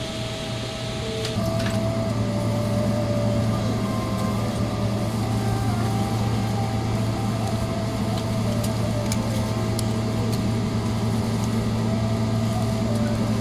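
Steady drone inside the cabin of a Boeing 777-300ER taxiing after landing: a low hum with a few steady tones over it, growing louder about a second in.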